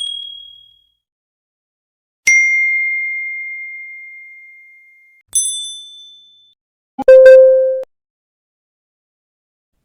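A series of separate ding sound effects with silence between them: a high ding fading out at the start, a clear ding ringing out for about three seconds, then a brighter, higher chime that fades in about a second. Near the end a click is followed by a lower, steady beep-like tone that stops abruptly after less than a second.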